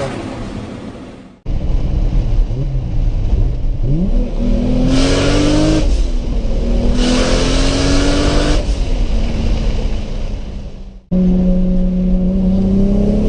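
Toyota Supra's turbocharged engine accelerating, its pitch rising through the revs, with bursts of hissing turbo flutter when the throttle is lifted. The sound cuts off abruptly twice, once about a second and a half in and again near the end, where a new clip of the engine running begins.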